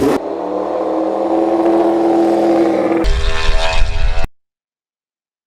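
High-revving racing engine at speed, its steady pitch climbing slightly; about three seconds in it changes abruptly to a louder, rougher engine sound with a deep rumble, which cuts off suddenly about a second later.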